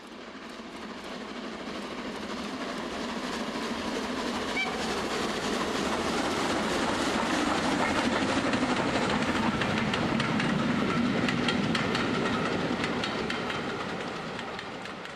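A train running past, its wheels clicking over rail joints, growing louder through the first half and fading away near the end.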